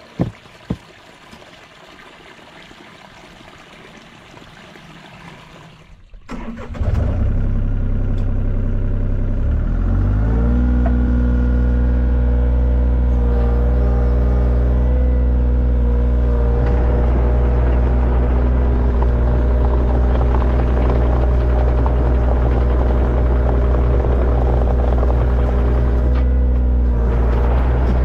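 A few sharp knocks at the very start. Then, about a quarter of the way in, an excavator's diesel engine starts, idles briefly, and rises to a steady higher speed a few seconds later.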